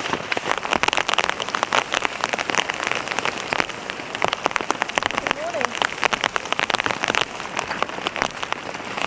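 Steady heavy rain drumming on a tent, dense with separate sharp drop hits.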